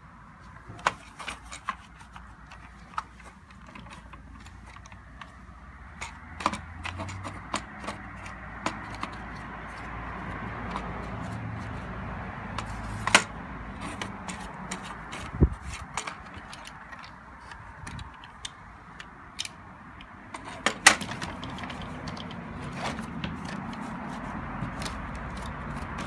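Irregular clicks and knocks of Roomba 780 parts being handled, with a few sharper knocks among them, over a low steady background noise.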